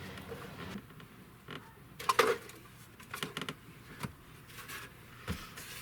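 Scattered clicks and knocks of plastic interior trim pieces being handled and fitted in a truck cab, the loudest knock about two seconds in.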